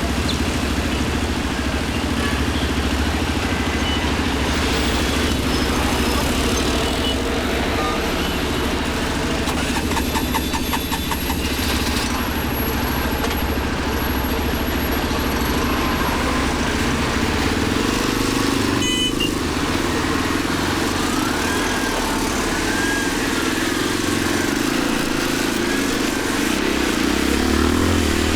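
Motorcycle engine running steadily while riding through city traffic, with road and traffic noise around it and a few brief high chirps and tones from the street.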